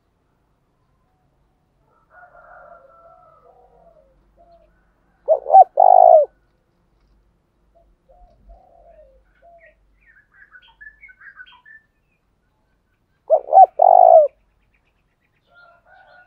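Spotted dove cooing: two loud three-note coos about eight seconds apart, two short notes then a longer one each time. Fainter bird calls and chirps fill the gaps between them.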